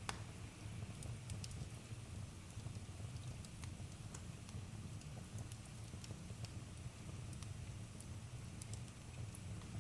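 Campfire crackling: scattered sharp pops at irregular intervals over a steady low rumble, with the loudest pop right at the start.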